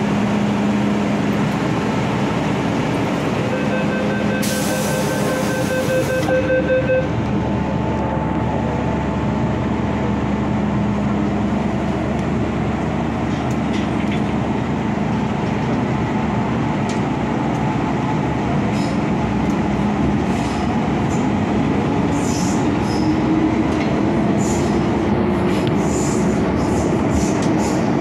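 MTR Kwun Tong Line M-Train running, heard from on board: a steady rumble of wheels on track with a low hum, and a tone that slowly rises over the last several seconds.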